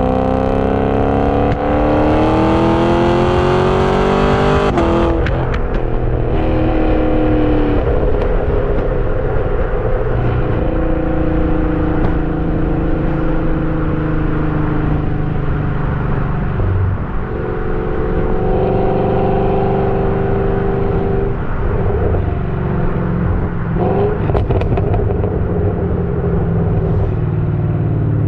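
Modified Chevrolet Camaro with long-tube headers, race catalytic converters and a modified muffler, accelerating hard with rising revs for about five seconds. The revs then drop sharply as the throttle is lifted and the exhaust crackles and pops. It runs on at varying revs, with another short burst of crackles near the end.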